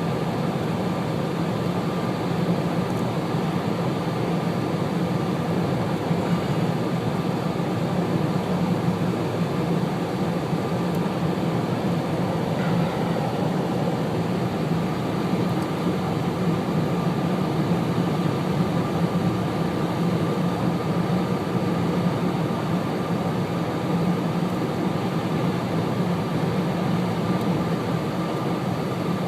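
Steady road and engine noise inside a moving car's cabin, driving at highway speed on a snowy road, with a faint steady whine.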